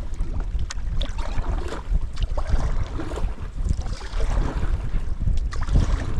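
Strong wind buffeting the microphone with a steady low rumble, while a canoe is paddled through waves, with irregular splashes and water slapping against the hull.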